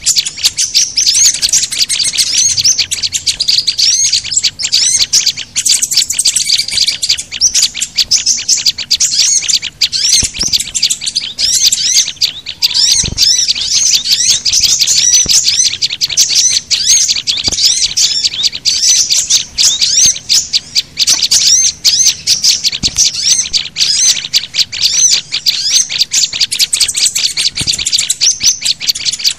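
Dense, unbroken high-pitched chirping and twittering of small songbirds, many rapid chirps overlapping. It is a bird-luring call recording that mixes the calls of several species, including white-eye, prinia, sunbird and flowerpecker, played to draw small wild birds in.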